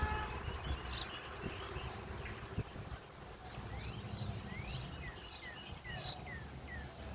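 Small wild birds chirping, with a run of short, quickly falling chirps a little past the middle, over a steady low rumble.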